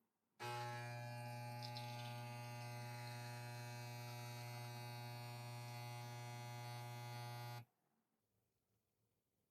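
Espresso machine pump humming steadily as it pulls a shot, starting half a second in and cutting off abruptly after about seven seconds.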